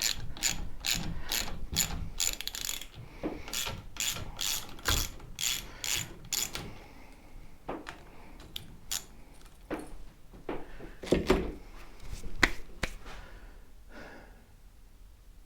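Socket ratchet wrench clicking in quick, even strokes, about three a second, as bolts on the motorcycle's front fork assembly are loosened. After about six seconds it gives way to scattered clicks and clunks of tools and parts.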